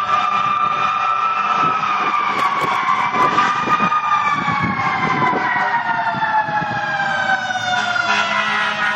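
Fire truck siren sounding one long tone that falls slowly and steadily in pitch.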